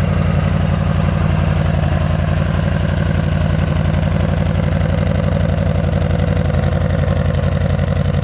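Yamaha V-Star cruiser's V-twin engine idling steadily through its stock exhaust, just after starting.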